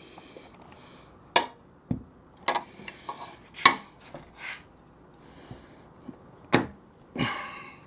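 Hand tools clinking and knocking on metal during door hinge pin and bushing work: five sharp knocks spaced irregularly, with short rasping, rubbing sounds between them.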